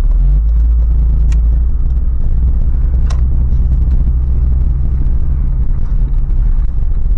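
Cabin rumble of a Toyota 4Runner's 4.0-litre V6 driving slowly, a steady low drone with a faint engine hum. There are two light clicks, about a second and about three seconds in.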